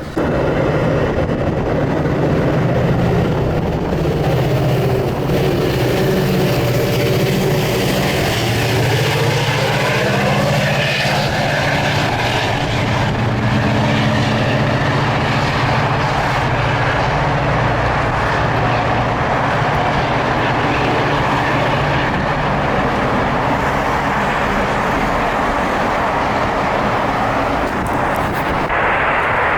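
Metro train running, heard from inside the passenger car: a steady low hum with rail and wheel noise. A whine rises in pitch from about seven to twelve seconds in as the train gathers speed.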